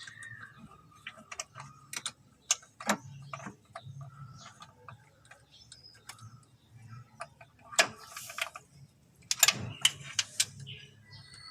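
Irregular clicks and light knocks of hand-tool work on a car starter motor, with the loudest knocks about eight and nine and a half seconds in.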